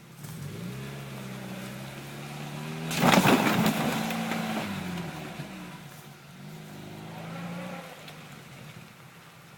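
Lada Niva's engine revving up and easing off twice, with a loud rushing noise about three seconds in that lasts over a second.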